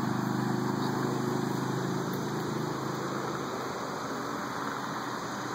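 A car engine running at a steady low pitch, fading away over the first few seconds and leaving an even background hiss.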